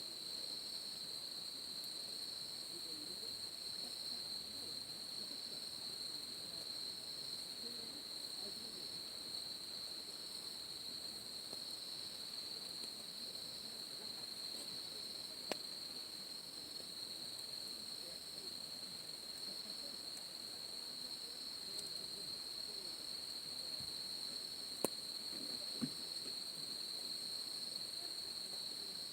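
Night insect chorus: a steady high-pitched trill from crickets or katydids, with a second insect giving short calls about every second and a half. A few sharp clicks stand out, one about halfway through and two near the end.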